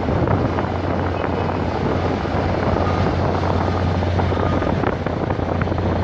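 An engine running steadily with a low, even hum, under wind noise on the microphone and a few faint knocks.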